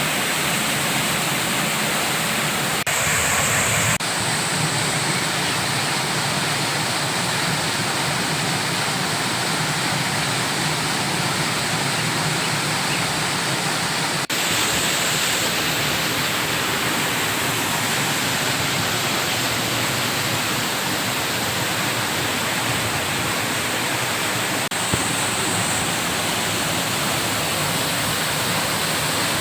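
Curug Cisanca waterfall: a steady, loud rush of falling water, shifting abruptly in tone a few times.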